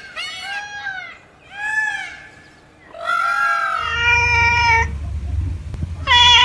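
An animal calling in a series of high, meow-like cries: short cries that rise and fall in the first two seconds, then longer held calls, with a low rumble underneath from about four seconds in.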